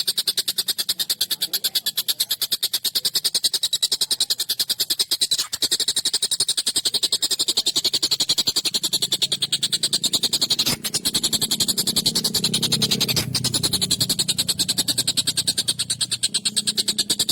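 Tengkek buto (a large kingfisher) calling in a continuous, rapid rattling series of fast, evenly repeated harsh notes.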